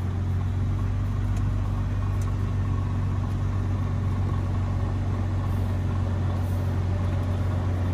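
Low, steady hum of an idling car engine, with a few faint clicks near the start.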